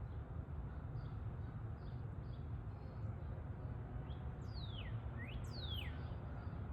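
Songbirds chirping with faint short notes throughout, and a bird giving three loud whistled notes that slide steeply downward about four to six seconds in, over a steady low background rumble.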